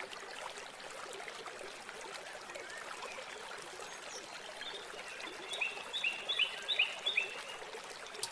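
A steady faint hiss of background noise, with a bird calling a quick run of about six short chirps a little past halfway.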